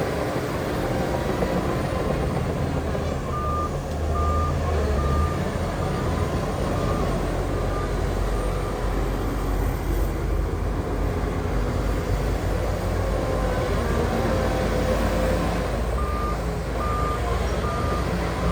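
Heavy earthmoving machinery's diesel engine running steadily, with a reversing alarm beeping about once a second: the machine is backing up. The beeping comes in about three seconds in, fades out, and starts again near the end.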